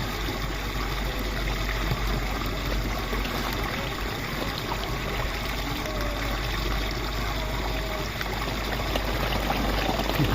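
Water running steadily in a small stream or channel, a continuous trickling rush.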